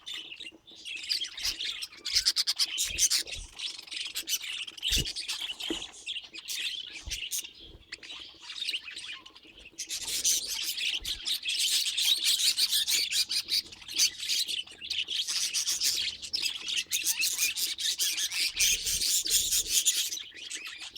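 Budgerigars chattering and warbling in a fast, continuous stream of chirps and squawks, growing denser and louder about halfway through.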